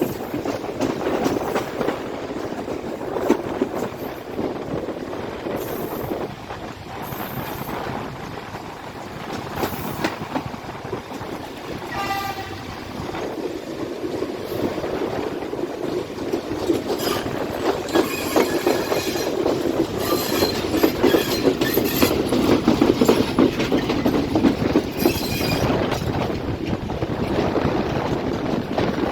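A diesel-hauled express train running through a railway yard, its wheels clattering steadily over rail joints. A short horn sounds about twelve seconds in, and high-pitched wheel squeal comes and goes later on.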